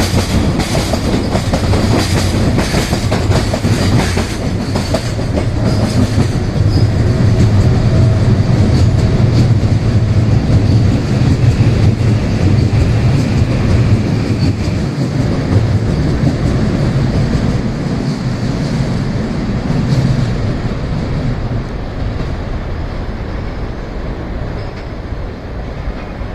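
Train cars rolling past at speed, the wheels clattering over rail joints with a steady low rumble; the sound slowly fades over the last several seconds as the train moves away.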